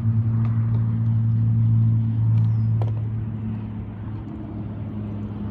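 A steady low engine drone that swells over the first three seconds and then eases off. A short falling bird chirp and a few light clicks sound about halfway through.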